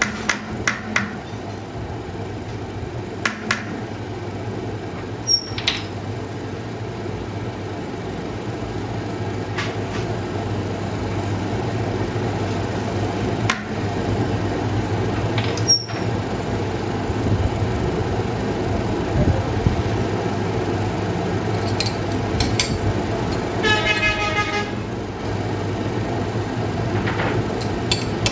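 Workshop machinery running with a steady low hum, with scattered sharp metallic clicks and knocks. About three quarters of the way through comes a short, rapidly pulsing honk.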